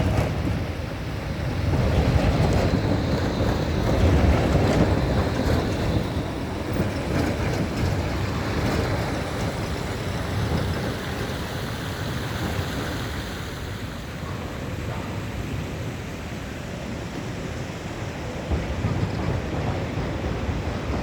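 Street traffic rumble with wind buffeting the microphone. It swells louder about two and again about four seconds in, as a vehicle passes, with a few faint clicks.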